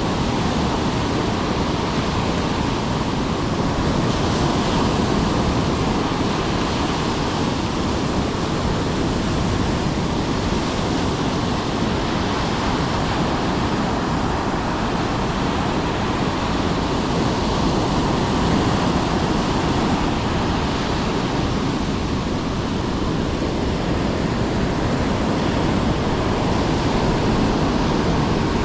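Steady wash of sea surf mixed with wind on the microphone, an even noise with nothing standing out from it.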